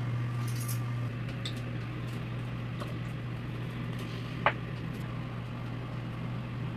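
Steady low hum of a range hood exhaust fan running over the grill, with a few faint clicks and one sharper crack about four and a half seconds in.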